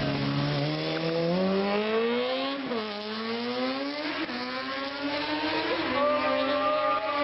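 Vehicle engine accelerating hard: its pitch climbs, drops sharply about three seconds in at a gear change, then climbs again and holds high near the end.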